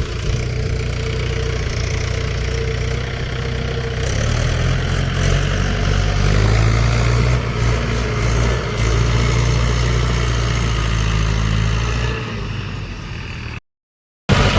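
Diesel tractor engine running steadily, growing louder about four seconds in. Near the end the sound cuts out completely for under a second, then comes back.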